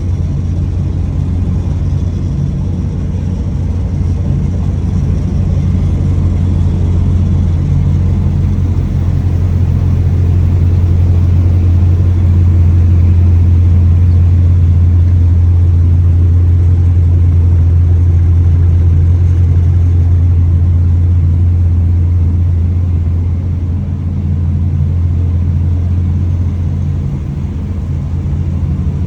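Car engine running steadily with a deep, even drone that swells a little in the middle and eases off near the end.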